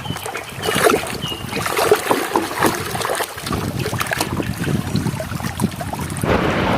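Water splashing and sloshing with irregular knocks of plastic toys being washed. About six seconds in, a steady rush of running water starts.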